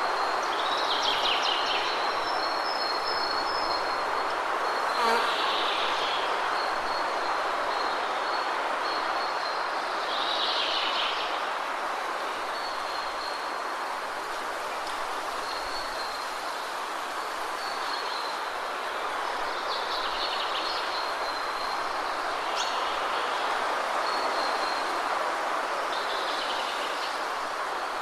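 Waterfall rushing steadily, with birds chirping now and then over it.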